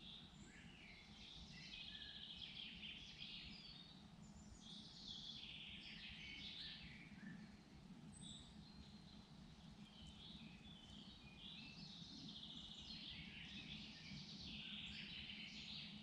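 Songbirds singing faintly in a forest, several short overlapping songs and trills coming and going, over a low steady hum.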